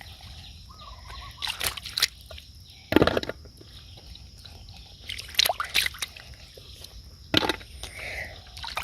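Shallow water sloshing and splashing as hands work through it, in a handful of short, separate splashes a second or more apart.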